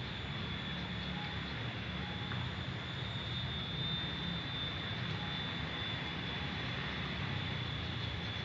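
Steady outdoor background noise: a low rumble with a constant thin, high-pitched drone over it.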